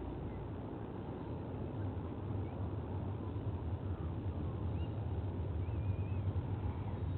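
Low, steady background rumble that grows a little louder about two seconds in, with a few faint, high bird chirps over it.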